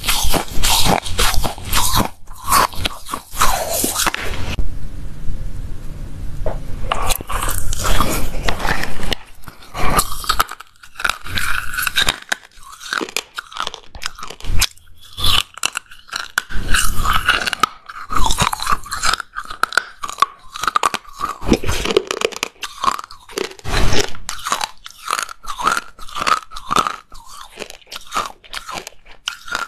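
Close-up biting and chewing of hard lumps of china clay: dense, crisp crunching and crackling, easing off for a couple of seconds about five seconds in, then going on in repeated bites.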